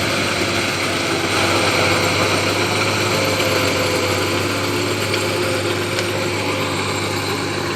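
John Deere tractor's diesel engine running steadily at an even speed.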